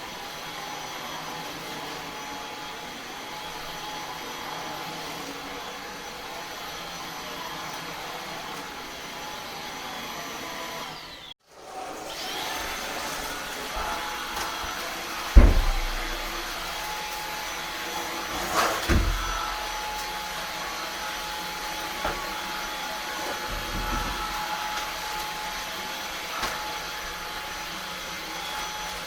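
Eufy HomeVac S11 cordless stick vacuum running steadily. The sound cuts out abruptly for a moment about eleven seconds in and then resumes. A loud knock comes near the middle and a smaller one a few seconds later.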